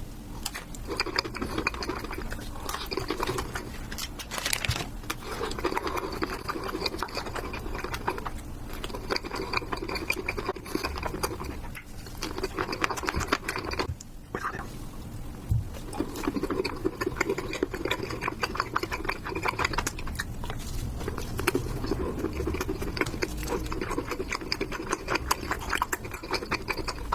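Close-miked ASMR chewing of milk chocolate: soft, wet mouth sounds with dense fine clicks and smacks, going on almost without a break, with a few brief pauses.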